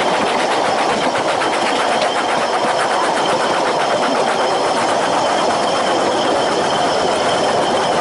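Narrow-gauge Ffestiniog Railway train running along the line: a steady rolling din with a fast, even rattle of wheels and carriage over the track.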